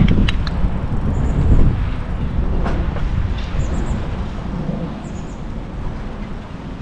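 Wind buffeting the microphone of a rider on a moving bicycle: a low, uneven rumble with a few light clicks, growing quieter toward the end.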